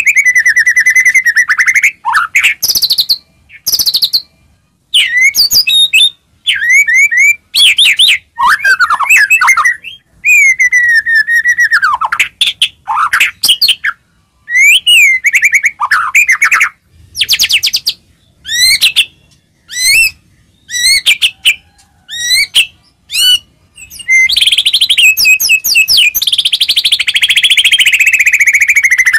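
White-rumped shama (murai batu) singing in full voice: short phrases of loud, clear whistles, slurred notes and rapid trills with brief pauses between them, running into an unbroken stretch of song near the end.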